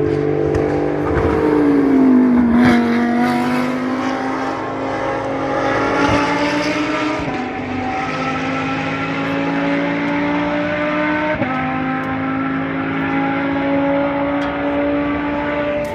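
GT race cars' engines at racing speed on the circuit. About two seconds in, one engine note drops in pitch as a car goes by; then the engine notes climb slowly, with a sudden step in pitch about eleven seconds in, like an upshift.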